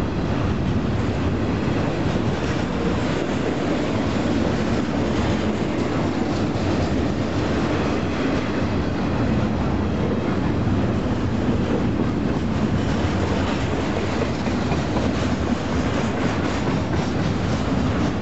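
Double-stack intermodal freight train's container well cars rolling past at close range: a steady, fairly loud noise of steel wheels on the rail, with faint repeated clicks through it.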